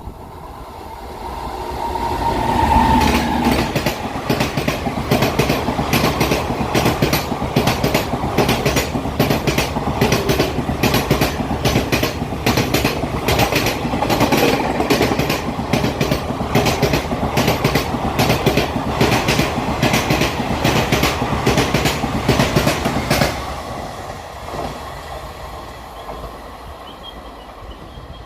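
Indian Railways express passenger train passing at high speed, its wheels clattering rapidly over the rail joints. The sound builds over the first couple of seconds, holds for about twenty seconds, and drops away quickly once the last coach has passed.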